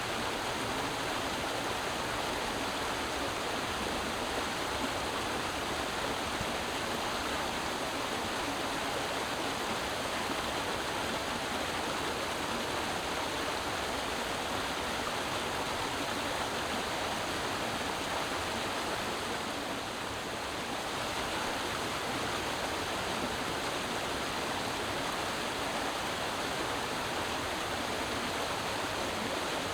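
Creek water running over rocks, a steady rushing babble that dips slightly about two-thirds of the way through.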